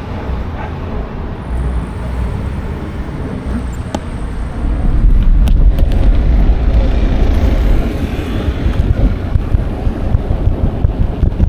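Wind buffeting an action camera's microphone while cycling, a steady low rumble that grows louder about four and a half seconds in, with a few faint clicks.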